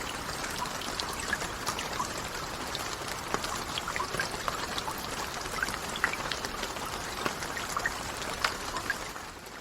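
Steady rain with many separate drops ticking sharply through the hiss, fading out near the end.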